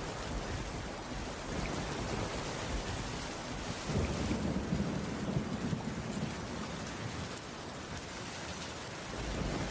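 Steady rainfall on a wooden cabin roof. A low rumble swells up about four seconds in and dies away a couple of seconds later.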